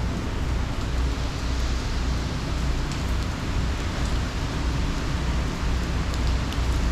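Steady hiss of heavy hurricane rain, with a deep rumble underneath and a few faint drop ticks.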